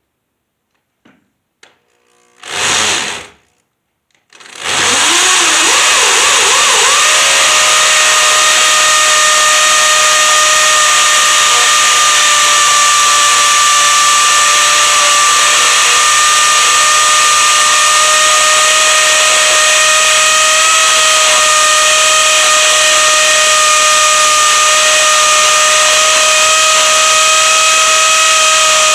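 An electric power-tool motor gives a short blip, then spins up over about two seconds and runs steadily at high speed with a constant whine.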